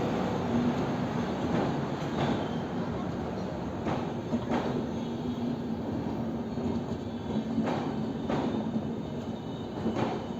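A train running on the rails: a steady rumble with a faint hum, broken by irregular sharp knocks.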